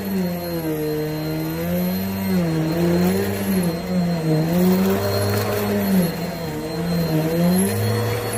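Vacuum cleaner running on carpet, its motor tone dipping and rising in pitch every second or so as the load changes with each stroke.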